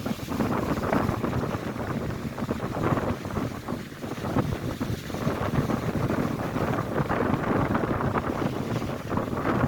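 Strong wind buffeting the microphone with a low rumble, over Lake Erie waves crashing on the shore. The noise swells and eases in uneven surges.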